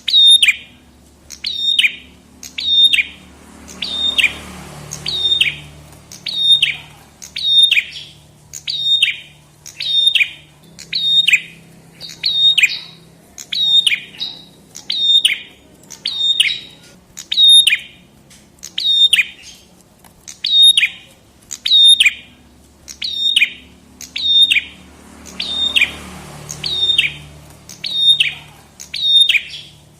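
Prenjak kepala merah (red-headed prenjak) calling over and over: a sharp, doubled chirp that falls in pitch, repeated steadily a little more often than once a second. A faint low hum lies beneath.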